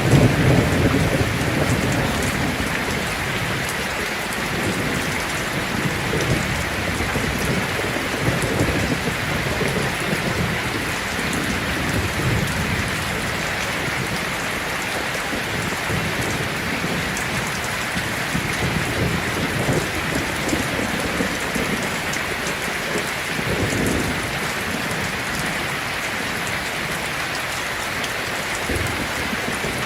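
Heavy rain falling on a tin roof as a steady hiss. A low rumble of thunder fades over the first couple of seconds, and a fainter rumble comes later.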